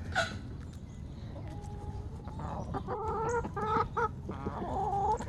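Chickens clucking, a run of short low calls that grows busier in the second half, typical of a rooster calling hens to food he has found.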